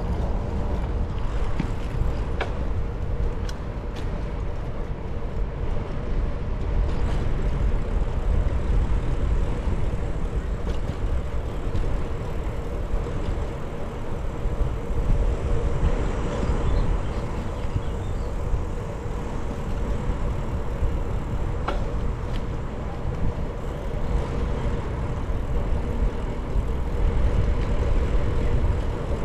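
Steady rumble of riding on a bicycle: wind and rolling noise on the microphone, with road traffic going by, and a few light clicks.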